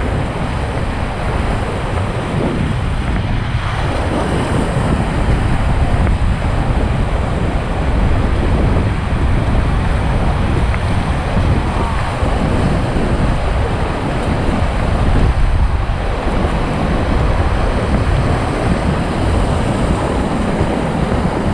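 Rushing whitewater of a river rapid, a loud, steady roar of water, with wind buffeting the microphone.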